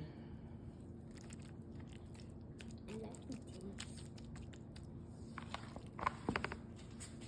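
Soft kitchen handling noises while sauce is spread on flatbread: faint scrapes, then a quick cluster of clicks and taps about six seconds in, over a steady low hum.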